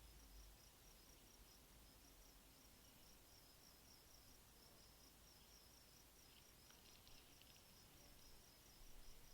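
Faint high-pitched insect chirping, like a cricket, repeating in an even pulsed rhythm over a hiss of background noise. There is a brief faint twitter about seven seconds in.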